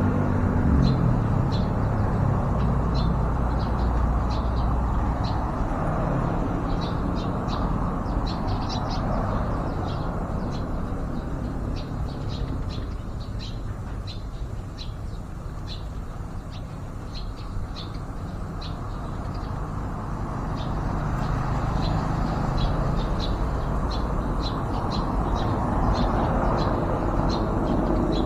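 Short, high bird chirps repeating irregularly throughout, over a steady rumble of road traffic that swells near the start and the end.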